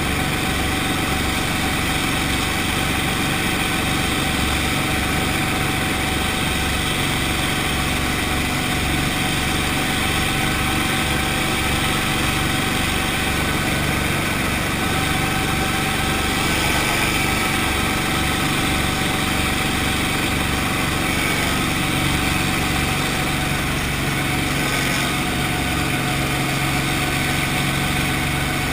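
Brantly B2B helicopter's piston engine and rotor running steadily, with a fluttering low beat under the engine note.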